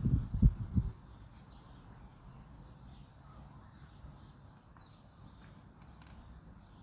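Small birds chirping faintly in short, high calls over a quiet outdoor hiss. In the first second, gusts of wind rumble on the microphone.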